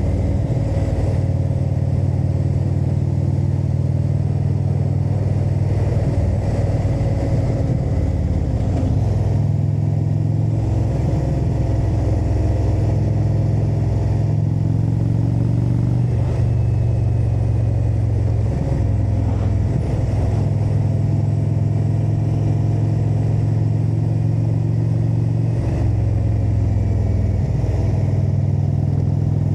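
Indian Super Chief Limited's air-cooled V-twin engine running under way, its pitch stepping down and back up several times as the throttle and gears change, around 6 to 9 seconds in, at about 16 and 20 seconds, and again near the end.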